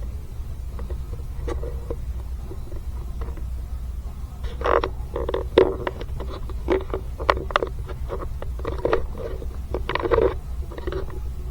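Hand tools knocking and scraping on metal in a quick, irregular run of strokes over about six seconds, starting a few seconds in, over a steady low hum.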